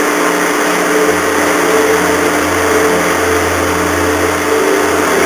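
Ferry engines running steadily as the ship comes into port, with a low hum that comes in about a second in and holds.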